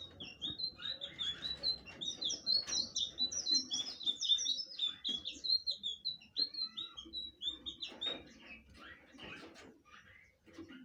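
A sikatan biru (blue flycatcher) singing a fast, busy run of short, high chirping notes that thins out about eight seconds in.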